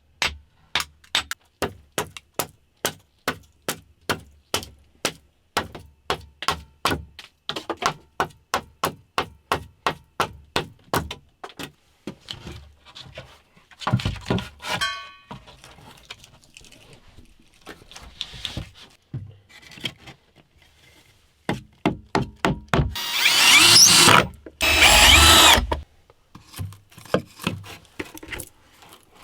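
Hand work on wood: a long run of quick, evenly spaced knocks, about three or four a second, stops after about eleven seconds. Scattered scraping and rubbing follow, then two loud rasping bursts about a second each near the end.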